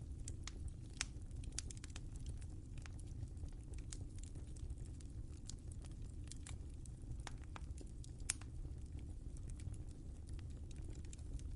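Wood fire crackling in a fireplace: scattered sharp pops at an irregular pace over a steady low rumble of the burning, with the loudest pops about a second in and about eight seconds in.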